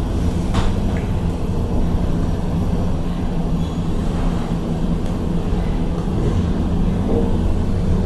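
KONE MiniSpace traction elevator running in its shaft: a steady low rumble, with a couple of light clicks about half a second and a second in.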